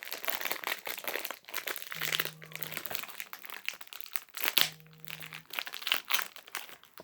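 Plastic Peeps package crinkling and crackling in irregular handfuls as it is twisted and pulled at in an effort to get it open.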